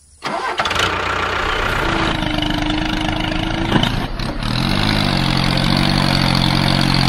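Tractor engine sound effect dubbed over a toy tractor: an engine starting up and running, with a brief rise and fall in pitch about five seconds in before it settles into a steady run.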